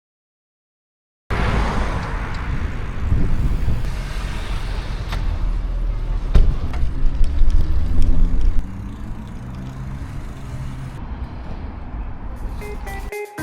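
Motor vehicle running, a heavy low rumble with road noise. The engine note rises and falls for a few seconds in the middle, then the sound drops to a quieter steady rumble.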